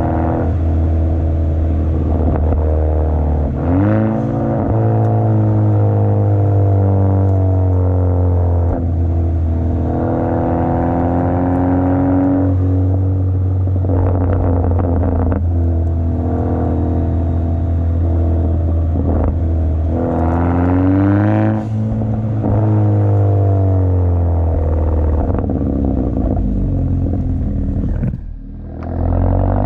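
Turbocharged 1.6-litre four-cylinder of a 2017 Hyundai Elantra Sport heard through a straight-through quad exhaust (second cat, resonator and muffler deleted) while driving. The note drones steadily and climbs in pitch twice, about four seconds in and again past twenty seconds, with a brief drop near the end as the throttle lifts.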